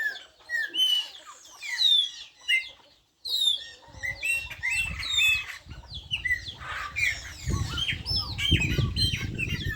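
Several birds singing together, a dense run of short whistled notes sweeping up and down, briefly cut off about three seconds in. A low rumbling noise comes in about four seconds in and grows louder near the end.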